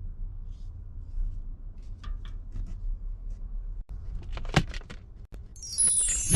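Rope and a thick iron chain being handled while a knot is tied and the chain is hung: scattered small clicks and knocks, a sharp knock about four and a half seconds in, then the chain's links jingling near the end, over a low background rumble.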